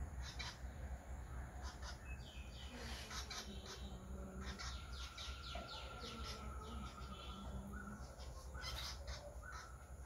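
Birds calling, most plainly a quick run of short sharp notes about four to six seconds in, with scattered single notes around it. A steady low rumble runs underneath.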